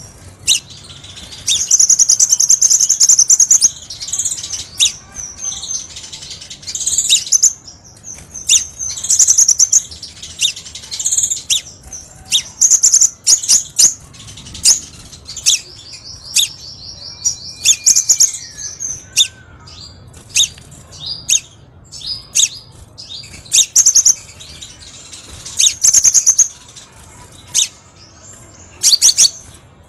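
Crimson sunbird calling: sharp, high chirps broken by rapid buzzy trills, repeated over and over.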